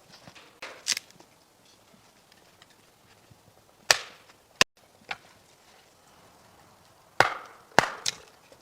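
Firewood being chopped or broken: sharp wooden strikes and cracks at irregular intervals, in clusters about a second in, around four seconds in, and near the end.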